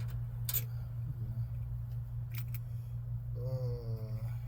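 A few short, sharp clicks of small screws and hardware being handled while trying them for size, over a steady low hum. A brief falling hum of a voice comes near the end.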